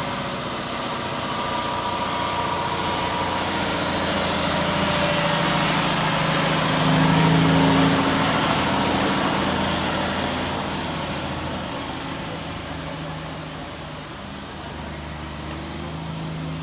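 Heavy truck engine running, growing louder to a peak about halfway through and then fading.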